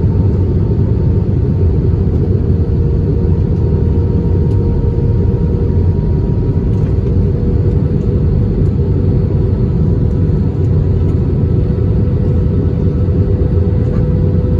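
Steady low rumble of engine and airflow noise inside an Airbus A320 passenger cabin, with a faint steady hum over it.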